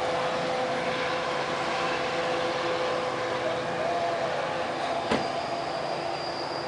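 Coaster commuter train running away down the line, a steady rumble with a constant hum, easing slightly as it recedes. A single sharp click about five seconds in.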